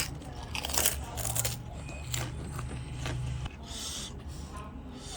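Eating noises: chewing with a few sharp clicks and scrapes, over a low steady hum that stops about three and a half seconds in.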